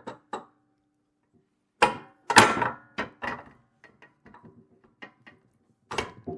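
Knocks, clunks and light taps of metal parts being handled and fitted while assembling a plate compactor's handle, the loudest knock about two and a half seconds in.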